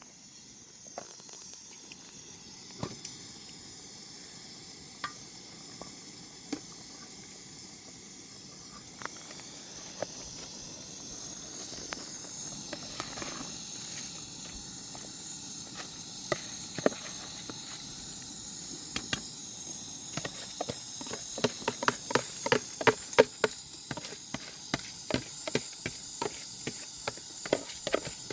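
Steady high hiss with scattered sharp knocks, which turn near the end into a quick, irregular run of knocks and taps, several a second, like hand work on wood.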